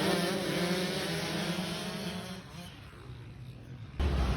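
Dirt bike engine running at a steady pitch and fading away over the first two seconds or so. Near the end the sound jumps suddenly louder with more engine noise.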